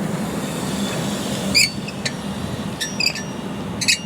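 Several short, high squeaks, about five from a second and a half in to near the end, over a steady background noise.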